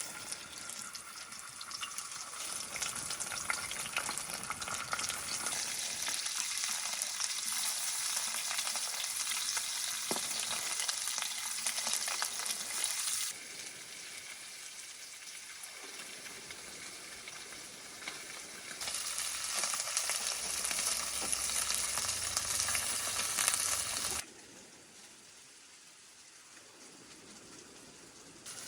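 Food frying and sizzling in a pan. The sizzle drops abruptly quieter about halfway through, comes back loud, then falls to faint for the last few seconds.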